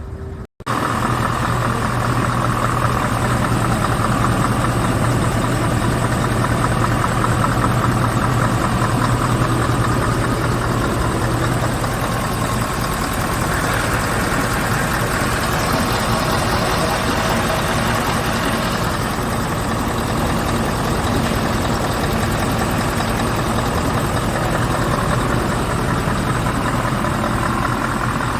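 Scania R truck engine idling steadily.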